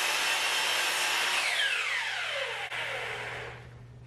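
Electric chop saw (miter saw) motor running at full speed with a high whine, then switched off about a second and a half in and winding down, its whine falling steadily in pitch as the blade coasts to a stop.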